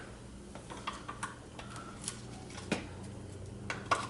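Scattered light metallic clicks and taps as a through bolt is worked into the engine's dog-bone mount, with two sharper knocks near the end. A faint steady low hum runs underneath.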